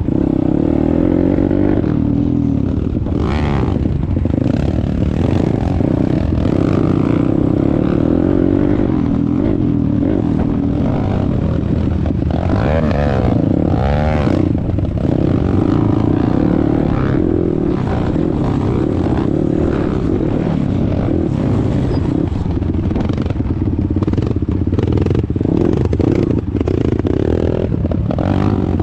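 A YCF 190 Daytona pit bike's single-cylinder four-stroke engine running while being ridden. The revs rise and fall through the gears, with the widest swings around the middle.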